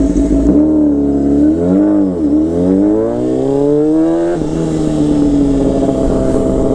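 Motorcycle engine running while riding: its pitch dips about two seconds in, climbs steadily as it accelerates, drops suddenly a little after four seconds, then holds steady.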